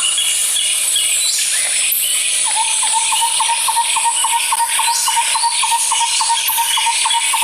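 Outdoor nature ambience: a steady high insect buzz, joined about two and a half seconds in by a short chirp repeated about four to five times a second.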